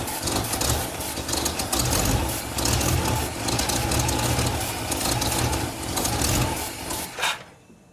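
1970 Chevy C10 engine being cranked over by the starter without catching, a steady pulsing churn that stops about seven seconds in. It will not fire because fuel is not reaching the carburetor.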